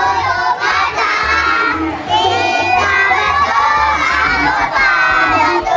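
A group of children singing and shouting loudly together over background music with a steady bass beat.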